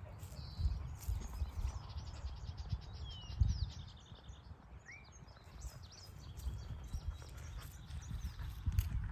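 Several small birds chirping and calling, with a rapid, evenly spaced trill from about one to three seconds in. Under them runs an irregular low thumping rumble.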